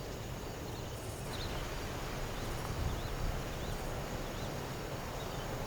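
Steady outdoor background noise with a few faint, short bird chirps in the middle.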